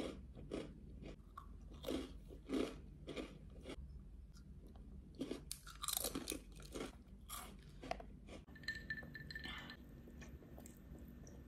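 A person biting and chewing crunchy snacks close to the microphone, in a run of sharp crunches, several a second at times. The crunching eases into quieter, softer chewing in the last few seconds.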